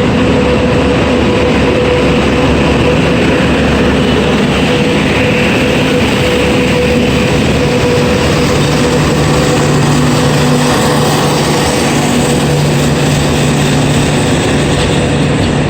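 Hatia Express passenger train pulling in alongside the platform: a loud, steady rumble of wheels on rails with a steady hum, and a lower hum that strengthens about halfway through.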